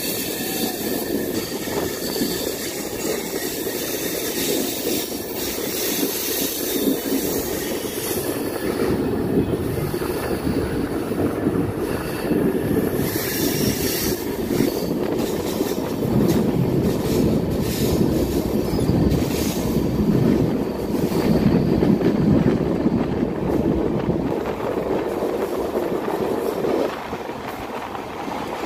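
Express passenger train running at speed, heard from on board: a steady rumble of wheels on the rails with many small knocks, dipping briefly near the end.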